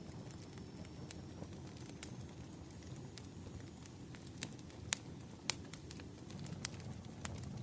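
Firewood burning with a crackle: scattered sharp pops and snaps, the loudest about five seconds in and again half a second later, over a steady low rumble.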